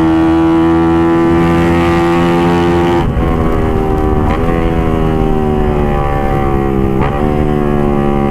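Suzuki GSX-R150's single-cylinder engine running through an aftermarket exhaust while riding, its note sinking slowly and breaking briefly three times, about three, four and seven seconds in. Wind rumbles on the microphone underneath.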